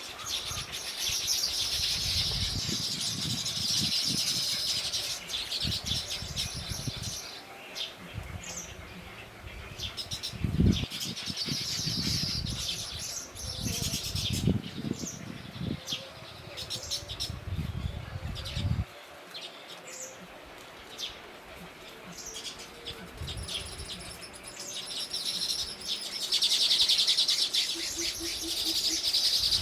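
A small bird calling in long runs of fast, high, rapidly repeated chattering notes, three bouts with scattered single chirps between them. Irregular low thuds sound underneath for much of the first two thirds.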